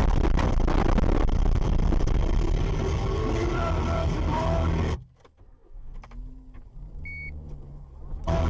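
Steady road and engine noise of a moving car, recorded from inside the vehicle. It cuts off abruptly about five seconds in to a much quieter passage with faint low hum and one short high beep.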